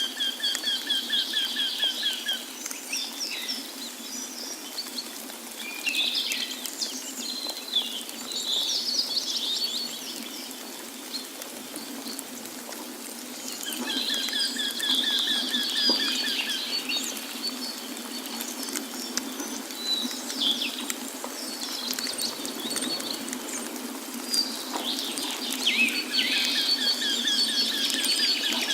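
Several songbirds singing and chirping, one of them repeating the same trilled phrase three times, about every twelve seconds, over a steady rush of flowing water.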